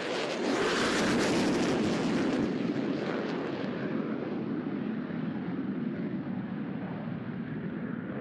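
Single Pratt & Whitney F135 jet engine of an F-35C Lightning II on a high-speed pass. The roar is loudest about a second in, crackling for the first couple of seconds, then fades slowly as the jet moves away.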